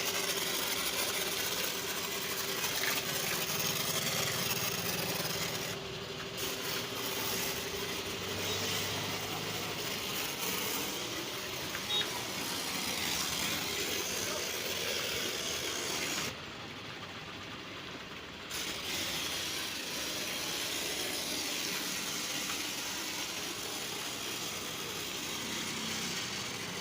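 Pressure washer running while foam is sprayed from its gun, a steady hiss of spray over a faint motor hum, with a couple of brief quieter spells.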